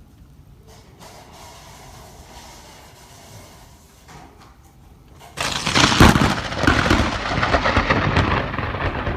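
Thunderstorm: a low hiss of rain, then about five seconds in a sudden loud thunderclap that goes on as a long, heavy rumble.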